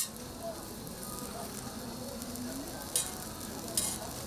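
Food sizzling steadily on a hot griddle, with two short sharp clicks near the end.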